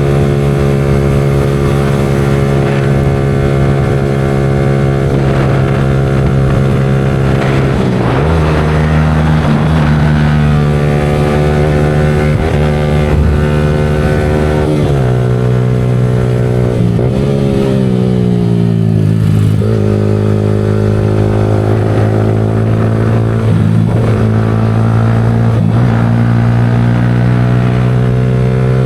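Yamaha R15 V4M's single-cylinder 155 cc engine running at steady revs, its pitch stepping up once and then dropping several times as the revs change.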